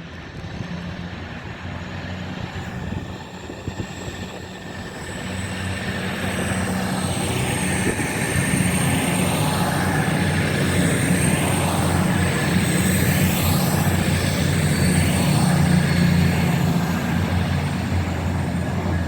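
Class 222 Meridian diesel multiple unit pulling away from the platform, its underfloor diesel engines working under power. The engine note is a steady low drone and there is a thin high whine above it. It grows louder over the first several seconds as the train gets going, then holds steady.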